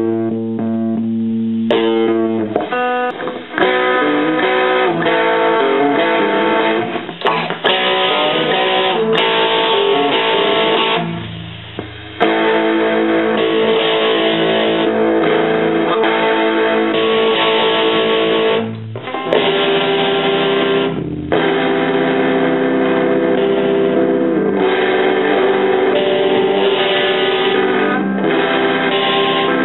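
Electric guitar played through a Roland Jazz Chorus combo amplifier, with steady pitched notes and chords. The playing breaks off briefly about 11 seconds in, and again near 19 and 21 seconds.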